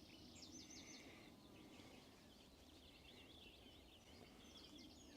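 Near silence with faint birdsong: a small bird's quick runs of high repeated notes, about half a second in and again from about two and a half seconds in.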